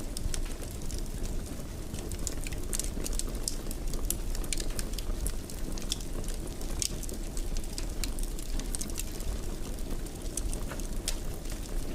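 Wood fire crackling in a fireplace: a steady low rumble with frequent, irregular sharp pops and snaps.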